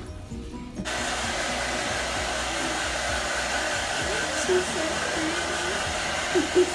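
Hand-held hair dryer switched on about a second in, then running steadily as the hair is blow-dried straight.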